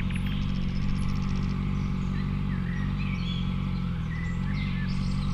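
Honda CBR650F inline-four motorcycle engine running at low, steady revs, the pitch dipping briefly about four seconds in. Birds chirp over it.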